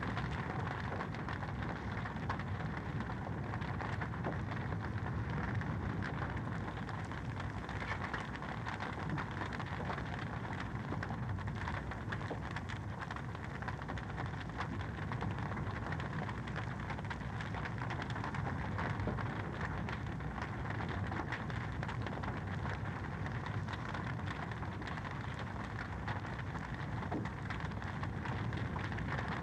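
Wood fire crackling in a fireplace: a dense, steady stream of small pops and crackles over a constant hiss.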